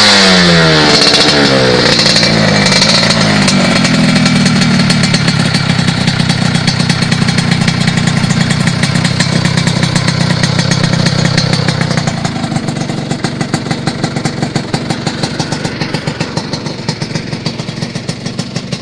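Motorcycle running through a Knalpot 37 aftermarket exhaust, revved in a few quick blips at first and then settling into a steady idle. Over the last several seconds the idle grows quieter and more uneven, its separate exhaust pulses easier to pick out.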